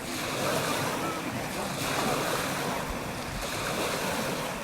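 Steady rushing noise of wind on the microphone and lake water, with faint voices in the background.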